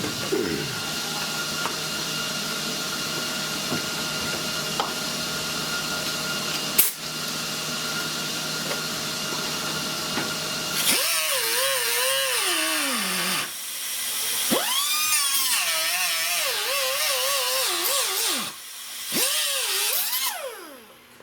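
Angle grinder grinding down tack welds on a steel body patch panel. It runs steadily at first, then its pitch dips and recovers again and again as it bears into the metal, and it winds down near the end.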